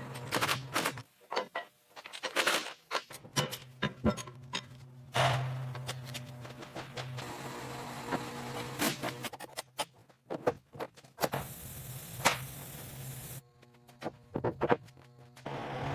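Irregular sharp clicks, knocks and clanks of metal work, over a steady low hum and background music.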